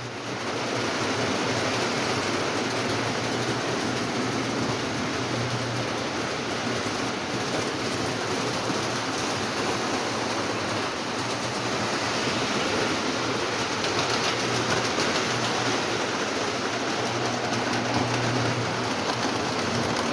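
Several Lionel O27 model trains running together around three-rail track: a steady rattle of wheels on the rails and whirring motors, with a low hum that swells now and then.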